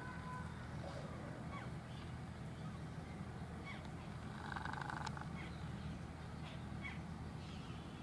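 Scattered short bird chirps, with a brief harsh chattering call about four and a half seconds in, over a steady low hum.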